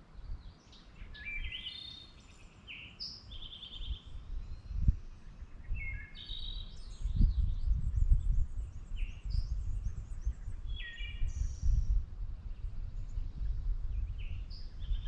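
Several birds chirping and trilling in short, varied calls, over a low rumble that grows stronger about halfway through.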